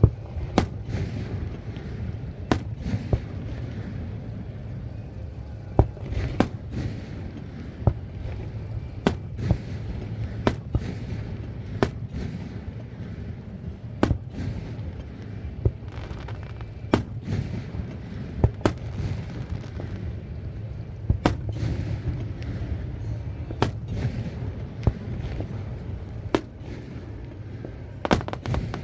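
Fireworks display: aerial shells bursting with sharp cracks and booms every second or two over a continuous low rumble, with a quick cluster of bursts near the end.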